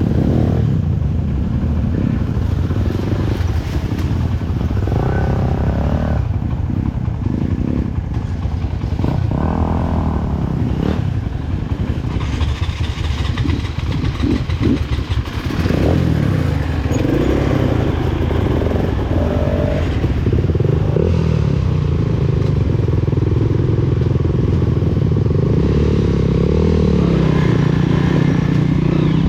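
Freshly overhauled Honda CRF230F's air-cooled single-cylinder four-stroke engine running as the bike is ridden, its pitch rising and falling with the throttle and some clattering knocks over the first half, then holding steadier near the end.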